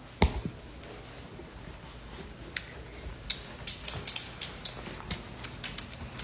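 Small tools clicking and tapping against a smartphone's parts during a repair: one sharp click near the start, then a run of light, irregular ticks from about halfway.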